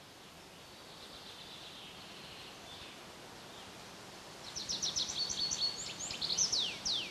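Songbird singing outdoors against a faint hiss: quiet at first, then from about four seconds in a quick run of high chirps followed by a few falling whistled notes.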